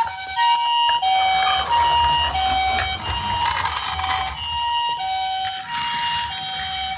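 Japanese ambulance two-tone "pee-po" siren, a higher and a lower tone alternating about every half second, with a second siren sounding out of step alongside it. A rushing noise swells and fades in places.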